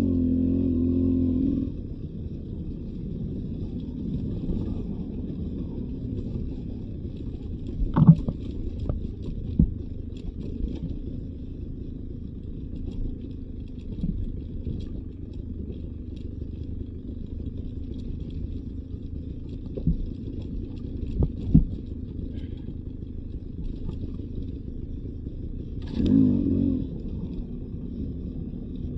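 Beta 300 RR two-stroke dirt bike engine running steadily on a trail, revving up briefly at the start and again near the end, with several sharp knocks and clatters along the way.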